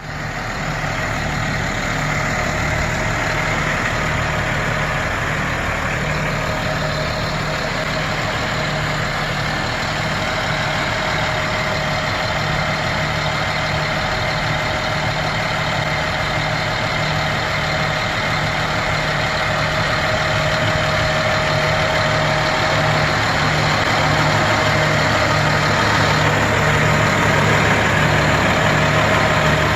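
1999 C7500 crew cab utility truck's engine idling steadily.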